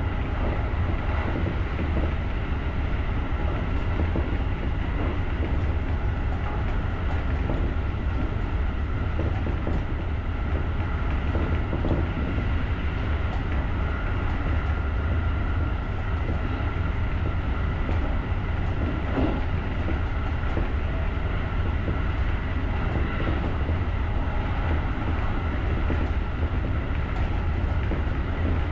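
JR electric multiple-unit rapid train running along the line: a steady low rumble with a faint high whine.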